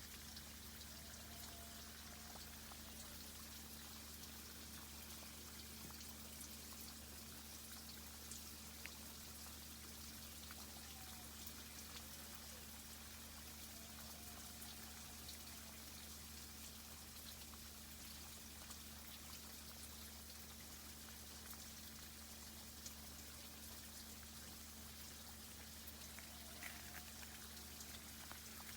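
Faint trickling and dripping of water from a tree irrigation system, with tiny scattered ticks over a steady low hum. A few faint wavering tones come and go.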